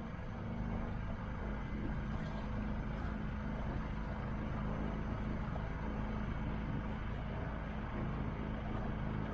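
Motorboat engine running steadily, heard from on board: an even low drone with a hiss of water and wind over it.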